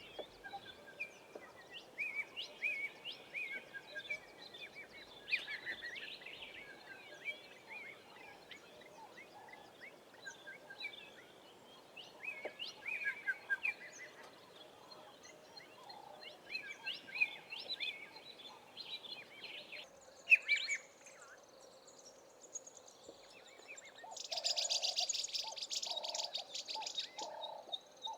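Several wild birds singing in the South African bush, with short chirping and warbling phrases repeated over and over. Near the end a loud, fast-pulsed rattling trill sets in, with a lower pulsing call under it.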